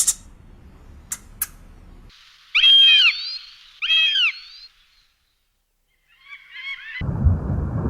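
Bird calls: a few sharp high chirps, then two loud arched calls about a second apart, and after a short silence a quick run of fainter calls. Near the end a steady low rushing noise cuts in.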